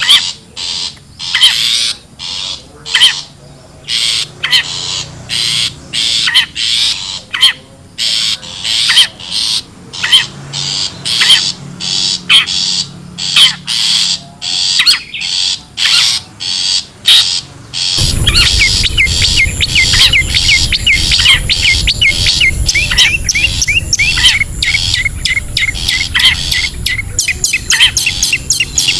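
Long-tailed shrike (cendet) calling: harsh, rasping notes repeated about twice a second. About 18 s in the recording changes abruptly to faster, thinner chirps over a low hum.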